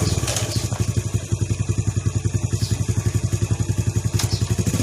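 Small engine just started and idling with a fast, even putter. Near the end it picks up slightly and runs smoother.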